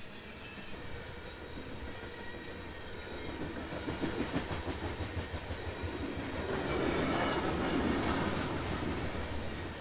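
Freight train approaching and rolling past, its wheels rattling and clacking over the rail joints, growing louder and loudest near the end.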